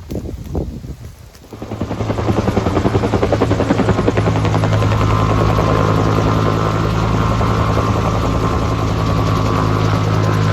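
A few short knocks and rustles, then a helicopter comes in close about two seconds in: a loud, steady, fast-pulsing rotor sound with a low hum that holds.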